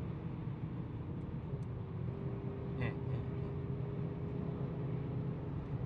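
Steady engine and road drone heard from inside a moving car's cabin, with a faint steady hum joining in about a second and a half in.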